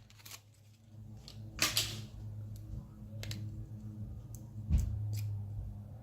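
Hand-handling noises from small parts and packaging: a few scattered light clicks and a short rustle over a steady low hum.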